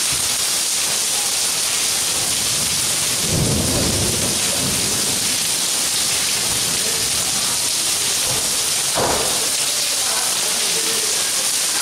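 Steady heavy rain hissing on a tiled courtyard. A low rumble comes in about three seconds in and lasts a second or two, and a shorter one follows about nine seconds in.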